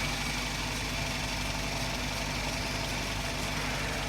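Toyota Corolla XLi petrol engine idling steadily. The engine has an abnormal running sound and poor fuel average, which the workshop sets out to cure with a tappet (valve clearance) adjustment.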